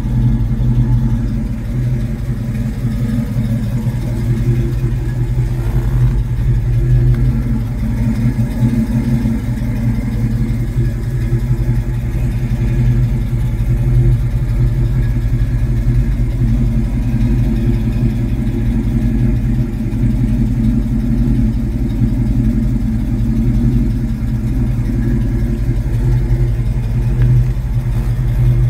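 A 1967 Mustang GT S-Code's 390 cubic-inch FE big-block V8 idling steadily through its dual exhaust.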